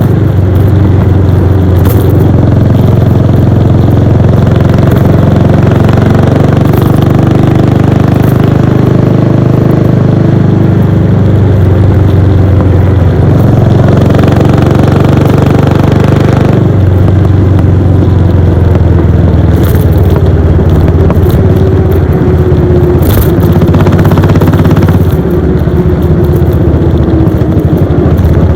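Royal Enfield Bullet 500's air-cooled single-cylinder engine running under way, its exhaust note loud and continuous. The pitch shifts with the throttle, changes suddenly about sixteen seconds in, and sinks slowly over the last several seconds.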